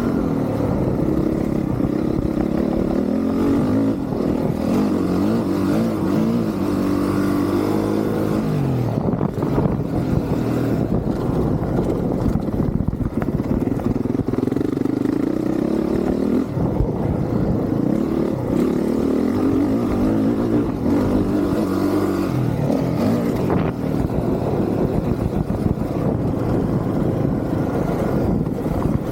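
Honda CRF450R's single-cylinder four-stroke engine ridden hard, its pitch rising and falling again and again as the throttle is opened and closed, with a rushing noise over it.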